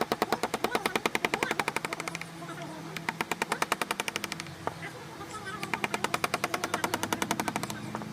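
Rapid, even tapping on a wood-carving chisel, in three runs of about two seconds each with short pauses between.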